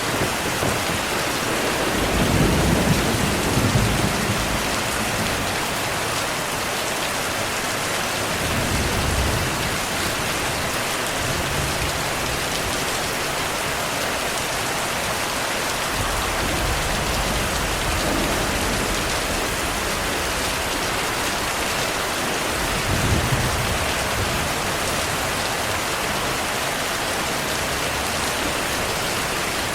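Steady rain falling, with low rumbles of distant thunder swelling a few seconds in, again around the middle, and once more near the end.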